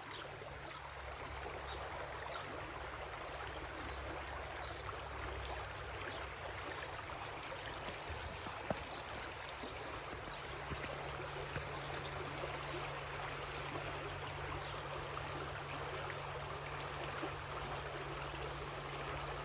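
Steady sound of running water, a small stream trickling and gurgling, with a faint click or two along the way.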